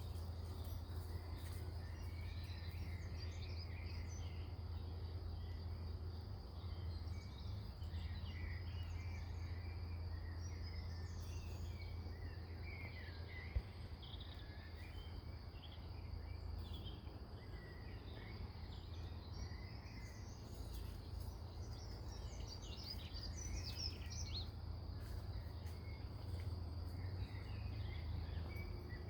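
Countryside ambience: a steady high insect trill with scattered bird chirps over a constant low rumble, and one sharp click partway through.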